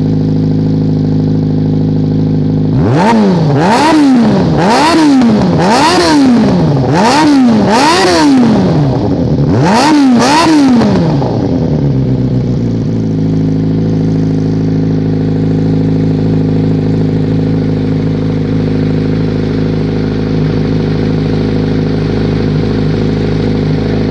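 Kawasaki Ninja motorcycle engine idling, then blipped through about seven quick revs, each climbing and dropping straight back, before settling back to a steady idle.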